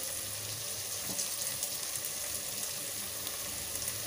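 Mixed vegetables and masala sizzling gently in an aluminium pot on a gas stove: a steady soft hiss with faint scattered crackles.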